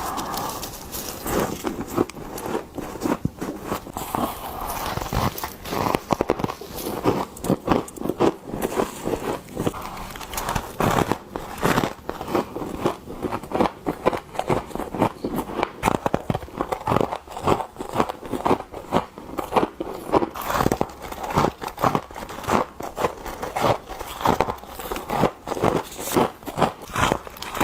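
Close-miked bites and chewing into powdery freezer frost: a continuous run of crisp crunches, several a second.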